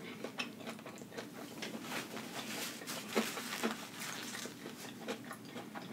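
Close-miked chewing of a mouthful of lettuce-wrapped burger: a quiet run of small wet mouth clicks and smacks, a few slightly sharper ones about three seconds in.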